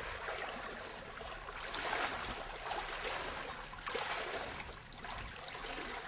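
Water sloshing and splashing in repeated swishes, as legs wade through knee-deep swamp water.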